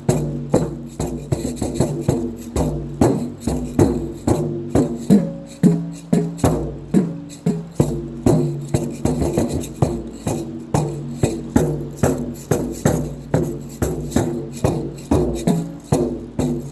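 Three tuned drums played in a steady beat of about three strokes a second, each stroke ringing at its own low pitch, with maracas rattling along.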